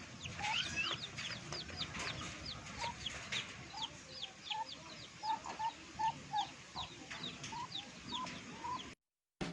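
A flock of chickens clucking and chirping, with many short, high, falling peeps over lower clucks, steadily repeated.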